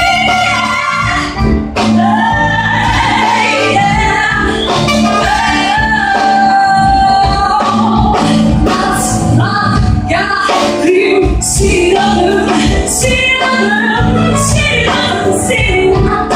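A live band accompanies a solo singer, with long held notes sung with vibrato over a steady backing.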